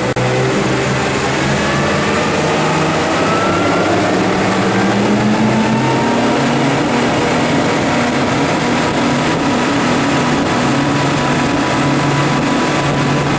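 Yamaha outboard motors on a Targa 30 boat under way: the engines climb in pitch over the first few seconds, then run steadily at speed over a constant rushing noise.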